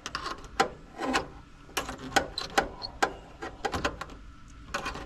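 Screwdriver and metal parts being worked on an air-conditioner condenser unit: an irregular run of sharp clicks, taps and short scrapes of metal on metal.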